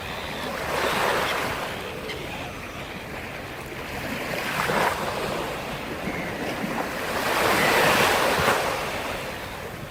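Sea waves breaking on the shore, the surf rising and falling in slow swells, the largest building toward the last few seconds.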